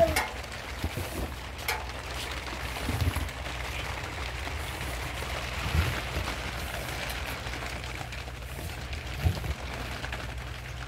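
Steady rain, with a sharp click at the start and a few dull low thumps about every three seconds.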